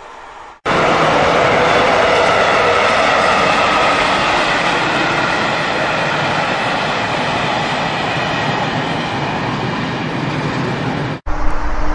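Passenger coaches rolling past at speed: a steady rush of wheels on rails that starts suddenly under a second in, slowly fades as the last coaches go by, and cuts off near the end.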